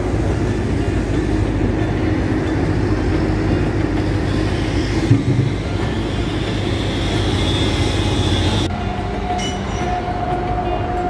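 Loud steady rumble of a passing train, with a faint high whine that rises in the middle and cuts off sharply about nine seconds in, leaving a steady hum.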